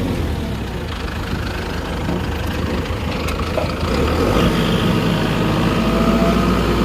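A vehicle engine running steadily at idle, a little louder from about four seconds in.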